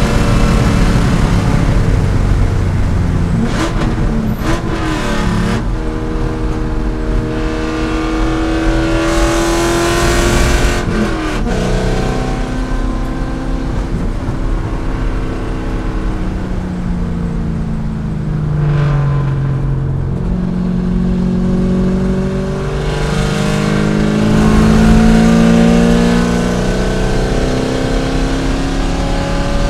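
C5 Corvette's V8 racing at speed. Its pitch climbs as it accelerates, breaks at shifts, and falls as it slows for corners, several times over.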